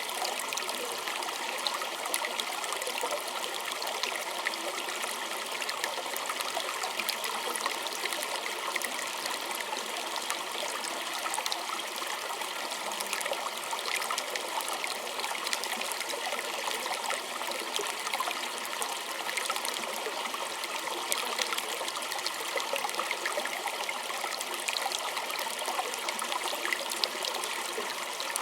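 Small stream trickling and splashing steadily over stones, with many small droplet splashes.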